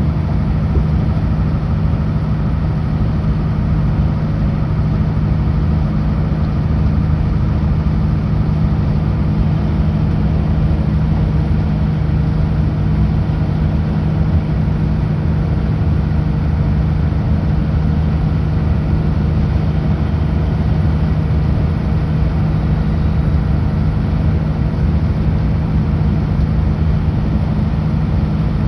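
Kenworth W900L semi truck's diesel engine droning steadily at highway speed, with road noise, unchanging throughout.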